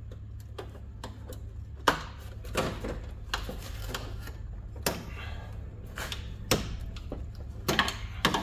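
Plastic grille retaining clips on a 1997 Toyota Corolla creaking and snapping as they are pried apart with a screwdriver and the grille is worked loose: irregular sharp clicks and cracks, the loudest about two seconds in and a quick cluster near the end, over a steady low hum.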